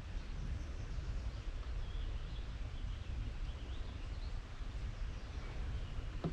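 Faint songbird chirps and short calls from the marsh woodland, mostly in the middle, over a steady low rumble on the camera microphone. A single sharp click at the very end.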